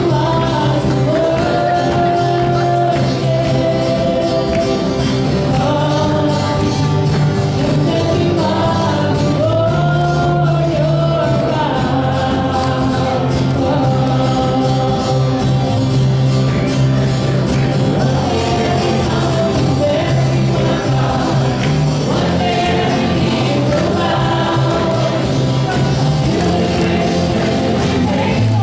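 Worship team playing and singing a gospel-style song, with sung melody over a steady bass and a tambourine.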